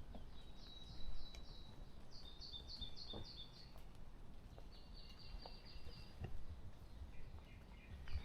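Wild songbirds singing: several short runs of quickly repeated high notes, each about a second long, over a faint low rumble.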